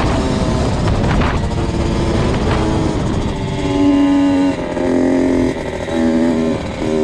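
2002 Kawasaki KX65's 65cc two-stroke single-cylinder engine running under a rider. In the second half the throttle is opened and closed in about four short bursts.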